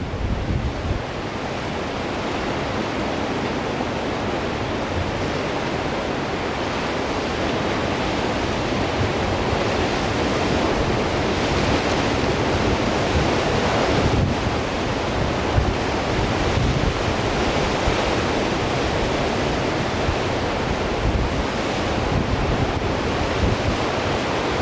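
Strong wind buffeting the microphone with a low, gusty rumble over the steady rush of surf breaking on the shore.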